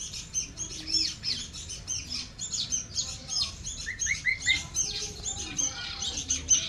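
Nestling birds chirping rapidly and continuously: dense, high-pitched chirps several per second, with a short run of lower chirps about four seconds in.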